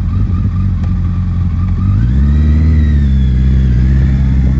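2019 Suzuki Hayabusa inline-four running through an aftermarket Yoshimura exhaust, idling for about two seconds and then revved up and held at a higher rpm.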